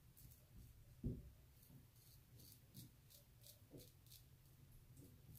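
Faint, short scraping strokes of a kamisori shavette razor cutting through lathered stubble, two or three a second. There is one soft thump about a second in.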